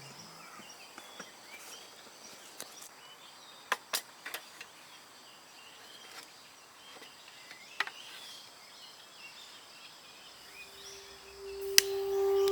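Quiet outdoor background with a handful of short, sharp clicks or cracks, two close together about four seconds in, another near eight seconds and one just before the end. Music comes in with a held note near the end.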